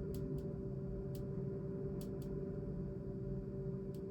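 A steady hum of several unchanging tones, with a few faint, sharp clicks scattered through it, the sort made by handling a small bottle.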